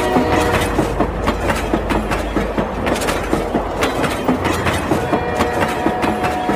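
Green battery-operated toy bullet train running along a concrete ledge: rapid, uneven clicking from its wheels and drive. A steady horn-like tone comes in about five seconds in.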